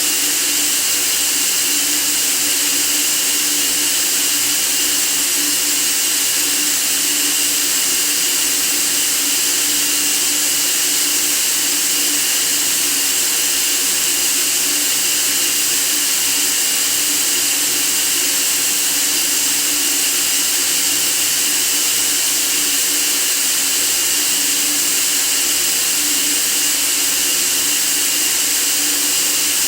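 Continuous white noise: a steady, unchanging hiss, bright and high-pitched, with a faint low hum beneath it.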